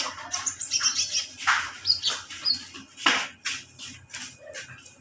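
Kolibri ninja sunbird chirping and twittering, a rapid run of short, sharp high notes with brief pauses between phrases.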